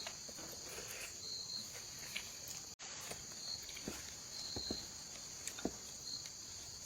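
Steady chorus of insects, a continuous high-pitched buzz, with a few faint scattered clicks and taps.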